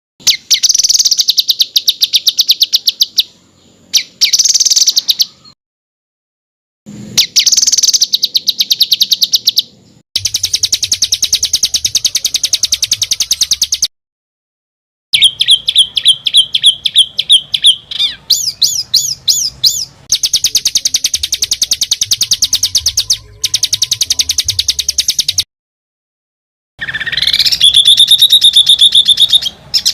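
Edited songbird master track: very fast, tightly packed rolling trills of high chirps, in several separate bursts that start and stop abruptly with dead silence between them, and a few rising, wavering whistled phrases among them.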